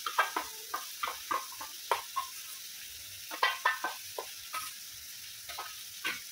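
Onion paste frying in a steel kadai with a steady sizzle, while tomato puree is scraped out of a steel bowl into it: irregular clinks and scrapes of a metal spatula against the steel bowl and pan, a quick cluster of them about three and a half seconds in.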